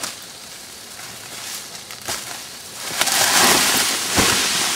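Water splashing and churning loudly from about three seconds in, with a heavy thud about four seconds in, as people struggle across a river.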